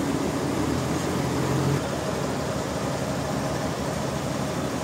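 Sawmill machinery running steadily with a low engine-like hum. About two seconds in, one tone in the hum stops and the sound gets slightly quieter.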